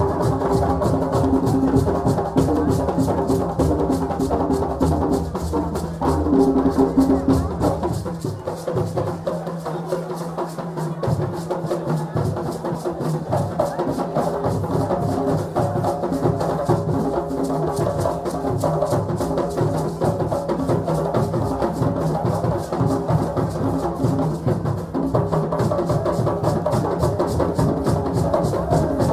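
West African celebration drumming: a group of hand drums playing a fast, dense rhythm. The deep drum drops out for a few seconds about a third of the way through, then comes back in.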